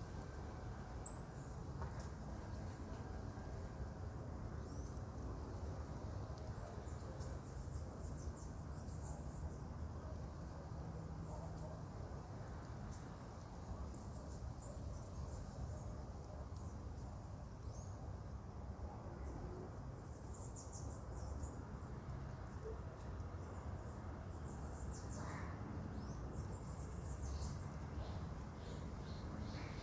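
Marmosets' short, high-pitched chirps and squeaks, scattered irregularly throughout, over a low steady background rumble, with a single sharp click about a second in.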